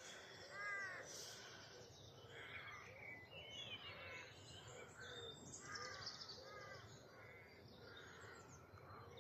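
Faint woodland birdsong: short, repeated calls about once a second, with higher twittering from other small birds over them.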